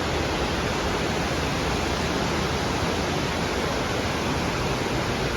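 Heavy downpour of rain falling hard and steady, an even hiss without let-up.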